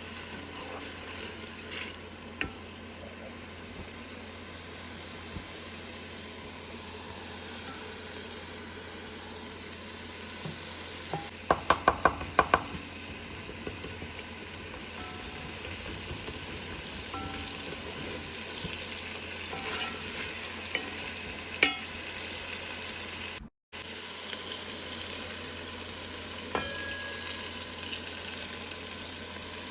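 Food sizzling as it fries in oil in a cooking pot, stirred with a spoon. About twelve seconds in there is a quick run of about six sharp knocks.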